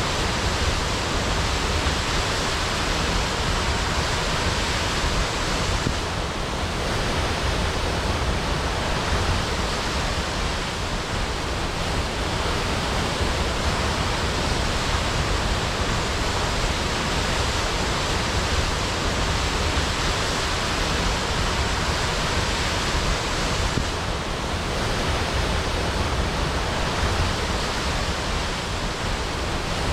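Waterfall crashing: a steady, dense rush of falling water with a deep rumble underneath.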